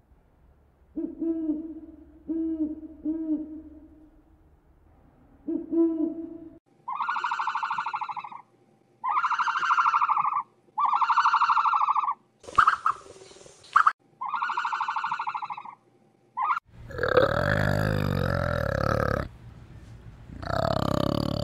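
A long-eared owl hooting: a few short, low hoots. About a third of the way in, a run of about five drawn-out calls, each about a second long, with a short rough noise among them. In the last few seconds, a flanged male orangutan's loud, deep calls, broken once by a short pause.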